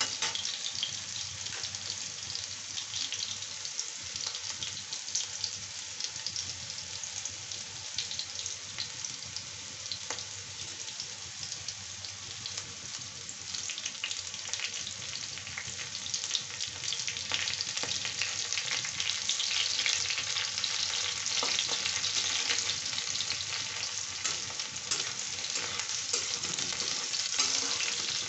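Diced vegetable pieces frying in shallow oil in a kadhai: a steady sizzle thick with small crackles and pops, getting louder about halfway through.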